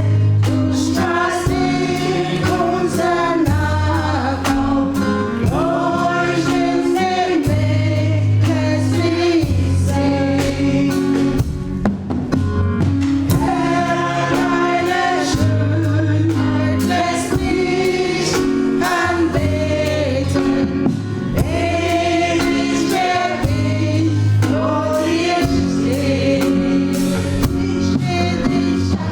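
Gospel choir singing live with band accompaniment: steady bass and drums with a regular beat under the voices.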